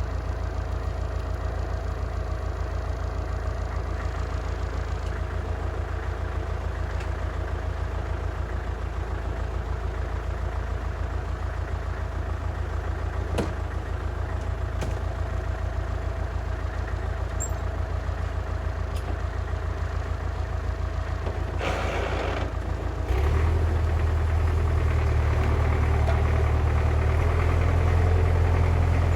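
Belarus MTZ-52 tractor's diesel engine running steadily under load as it pulls a heavy ballast roller. A short hiss comes just before three-quarters of the way through, then the engine gets suddenly louder and deeper and stays that way.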